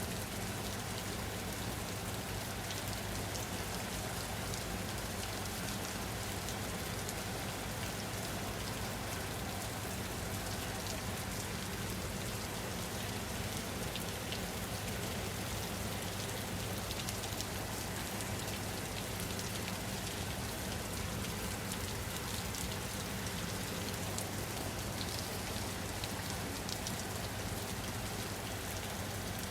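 Steady rain falling on a surface, an even hiss with scattered drop ticks and no change in level.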